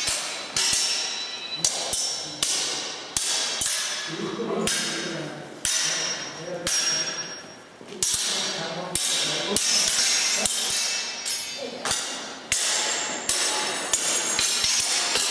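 Hard training sticks clacking against each other in fast, irregular strikes during a partner drill, several sharp hits a second.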